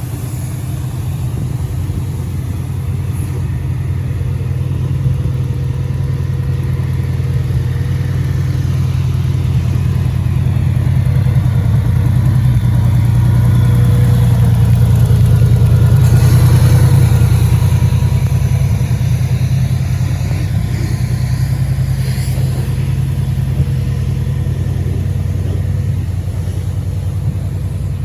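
Subaru SVX 3.3-litre flat-six engine running in a 1982 Volkswagen Transporter camper. Its steady low note grows louder toward the middle and eases off again.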